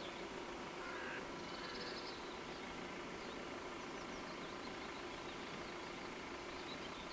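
Small birds chirping faintly now and then over a steady low hum.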